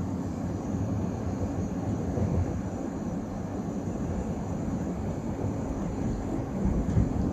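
Steady low rumble of a commuter train running, heard from inside the carriage, with a slightly louder low bump near the end.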